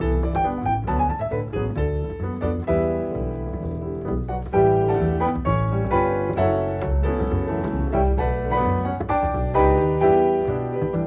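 Jazz piano playing chords and melody lines over low bass notes, from a piano and double bass duo recording.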